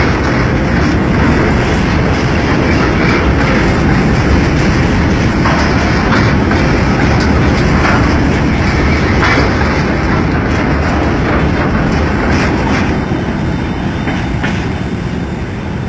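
Empty freight wagons rolling past, wheels clattering over the rail joints in an irregular run of clicks over a steady rumble. The sound eases off slightly near the end.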